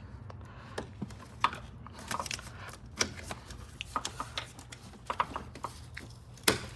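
Plastic clicks and light rattles of the engine control module (ECM) wiring connectors being unlatched and worked loose by hand, with one louder sharp click near the end.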